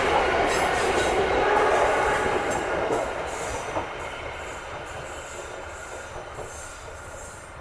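Pangrango passenger train rolling along the rails as it departs, its wheels clicking over the rail joints. Loud at first, the sound fades steadily from about three seconds in as the train moves away.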